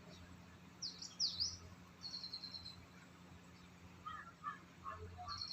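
Small birds chirping: two quick high sweeping calls about a second in, then short rapid trills, with softer chirps and another trill near the end, over a faint steady low hum.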